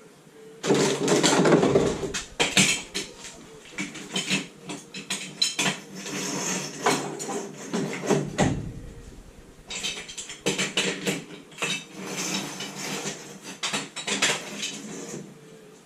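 Metal hand tools and parts clinking and clattering irregularly during work on a classic Mini's engine, with a low thump about halfway through.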